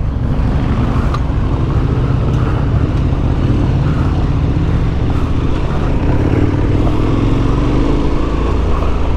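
KTM 1290 Super Adventure S's 1301 cc V-twin engine running steadily under way on an off-road track, its note rising and falling gently with the throttle, over a heavy low rumble.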